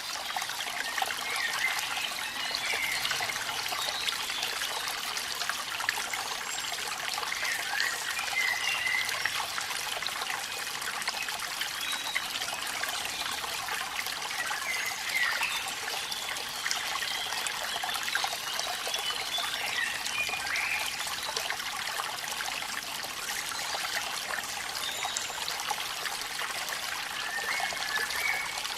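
Steady trickling and splashing of water from a small waterfall, with rain falling, mostly a light, hissy sound with little deep rumble.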